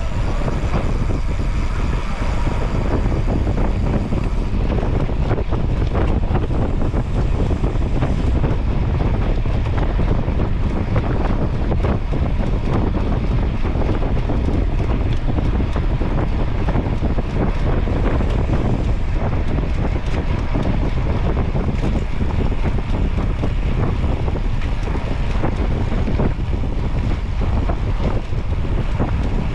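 Steady wind buffeting the microphone while it moves along a road.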